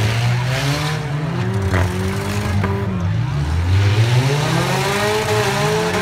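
Several four-cylinder demolition derby car engines revving up and down at once, their pitches rising and falling and overlapping.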